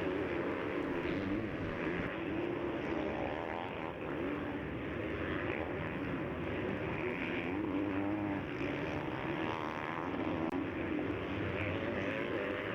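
Several motocross bikes racing on the track, their engines revving up and down and overlapping one another.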